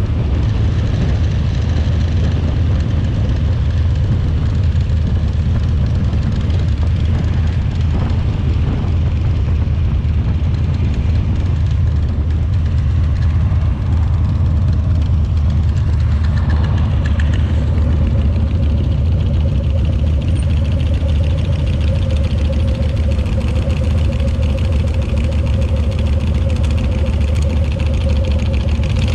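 Harley-Davidson Shovelhead V-twin engine running steadily with a heavy low rumble; a faint steady whine joins in past the halfway point.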